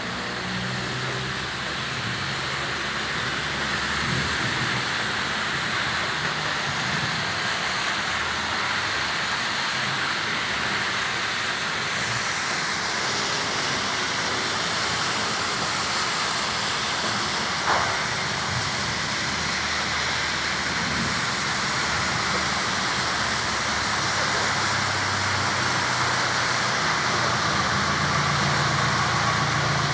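Steady rain falling, with road traffic engines running underneath and getting louder near the end. A single sharp knock is heard about 18 seconds in.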